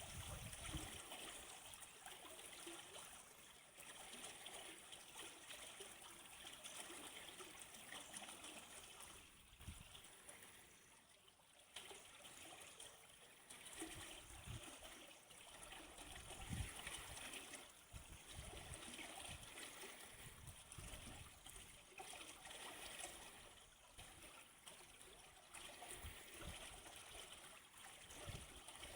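Small stream trickling and gurgling steadily, with a few brief low thumps now and then.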